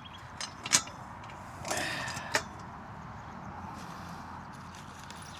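Metal parts of a non-penetrating roof mount frame knocking together as they are lined up: a few light clicks, one sharp clank about three-quarters of a second in, and a short scraping rattle ending in a click around two seconds in.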